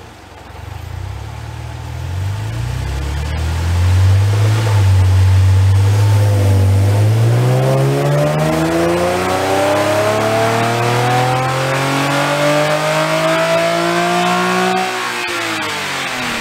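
2010 Nissan 370Z's 3.7-litre VQ37VHR V6 on a chassis dyno, running through Z1 headers, high-flow cats, a Vibrant resonator and muffler mid-section and an HKS Hi-Power axle-back exhaust. The revs rise and hold for a few seconds, drop back about six seconds in, then climb in one long pull under load for about eight seconds before the throttle is lifted near the end and the revs fall away.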